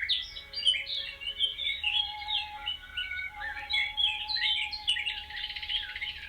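Many small birds chirping and twittering at once, short overlapping calls and quick glides, with a fast buzzy trill about five seconds in.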